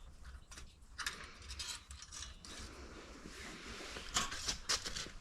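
Clicking and scraping as the oil filler cap on a snowblower engine is worked loose and the dipstick checked, with the sharpest clicks near the end.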